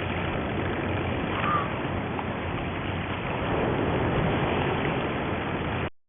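Boat motor running at idle under steady wind and water noise, with a brief high squeak about a second and a half in; the sound cuts off suddenly near the end.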